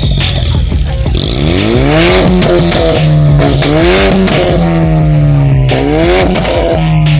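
Ford Mustang 2.3 EcoBoost's turbocharged four-cylinder engine revving through an aftermarket XEX sport exhaust: the revs climb about a second in and hold high, then dip and climb again near the end.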